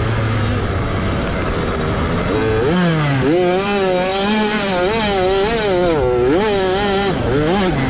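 A 65cc two-stroke motocross bike's engine being ridden hard: low revs at first, then a sharp rev-up about two and a half seconds in. It holds high revs with quick rises and falls as the throttle is worked, and drops back briefly twice near the end.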